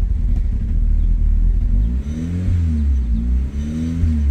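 Audi TT 1.8T turbocharged four-cylinder idling with a constant low rumble, its revs rising and falling twice in the second half. The engine is running on a newly fitted Grams 70 mm throttle body whose adaptation has left throttle body fault codes stored.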